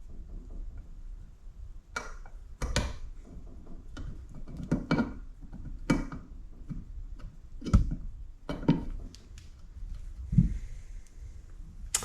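Hand tools clicking and knocking against a motorcycle engine case at irregular intervals while an old water pump oil seal is pried out of its bore.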